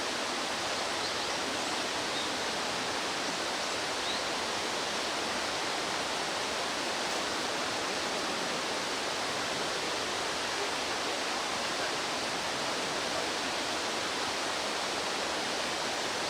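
Mountain stream rushing steadily, an unbroken wash of water noise.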